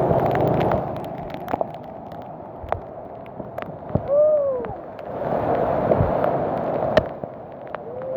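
Bicycle ridden through rain: a steady wet hiss and sloshing from the tyres on the wet ground, with scattered clicks and knocks. A short rising-then-falling tone comes about four seconds in.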